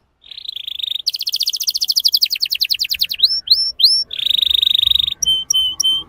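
Male domestic canary singing a string of quick song phrases, used as a lure song to get young canaries singing. It opens with a buzzy trill, then a fast run of repeated notes, three short rising whistles, another steady trill about four seconds in, and a short series of clipped notes near the end.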